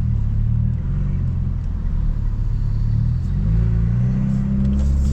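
Tuned BMW F30 328i's turbocharged four-cylinder engine and exhaust, a steady low drone heard from inside the cabin while driving. The drone rises a little in pitch over the last couple of seconds as the car picks up speed.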